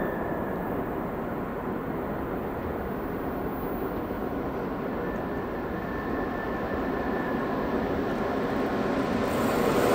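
Train on the Semmering mountain railway running steadily, its rolling noise growing louder over the last few seconds.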